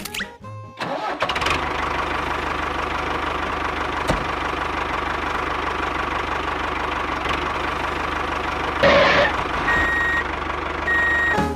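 Engine starting about a second in, then running at a steady idle, with a brief louder surge near the end.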